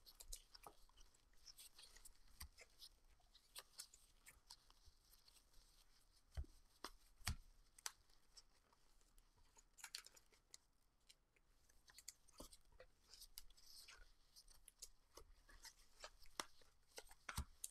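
Faint handling of Topps Stadium Club Chrome trading cards and pack wrappers: scattered soft clicks and rustles as the cards are flipped through one by one.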